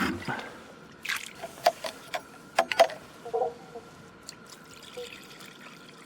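Water poured and trickling into a cooking pot to be boiled, with several sharp knocks and clinks of the pot and utensils in the first three seconds.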